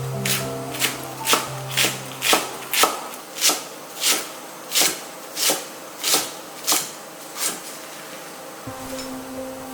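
Knife chopping on a cutting board: about a dozen even strokes, a little under two a second, over soft background music.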